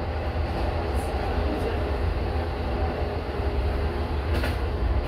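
Diesel passenger train running along the track with a steady engine drone and low rumble. Two brief sharp clicks sound about a second in and again near the end, the second louder.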